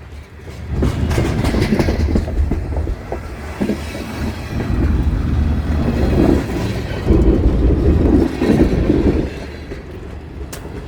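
Freight cars of a passing train rolling by close at hand: a steady rumble with irregular clacks of the wheels over rail joints. It grows louder about a second in and eases somewhat near the end.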